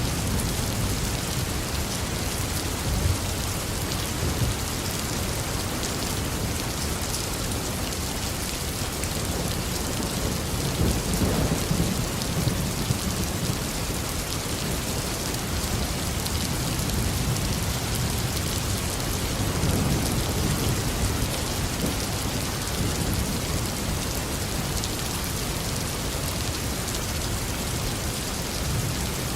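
Steady heavy tropical rain with rolling thunder: a deep rumble swells about a third of the way in and another about two-thirds through.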